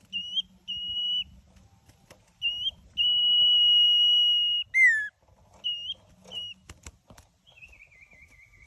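Common iora (cipoh) singing clear whistled notes: short upslurred notes, then one long held whistle of nearly two seconds, a quick downslurred note, and a wavering falling phrase near the end. A few sharp clicks sound between the later phrases.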